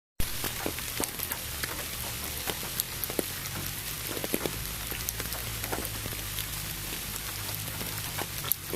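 Rain falling: a steady hiss with many separate drops ticking, mixed with pink noise. It cuts in suddenly just after a moment of silence at the start.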